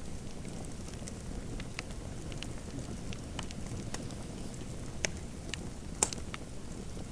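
Fireplace fire crackling: a steady low rumble with scattered small crackles and two louder pops about five and six seconds in.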